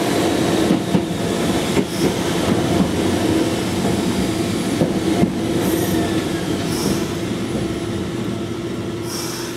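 Fukui Railway Series 880 electric train running and slowing under brake, heard from inside the driver's cab. It makes a steady rolling drone that eases off gradually, with a few short high wheel squeals.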